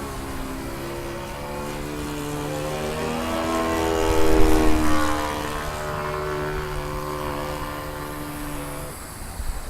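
Model airplane's Saito 80 four-stroke glow engine running in flight as the plane passes by: its pitch rises and then falls, and it is loudest about four to five seconds in.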